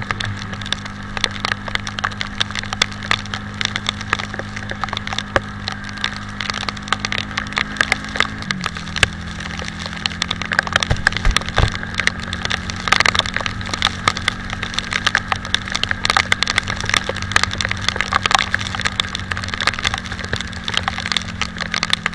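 Italika 250Z motorcycle engine running steadily under way, its pitch stepping down about eight and a half seconds in. A dense, continuous crackle of raindrops hits the microphone over it.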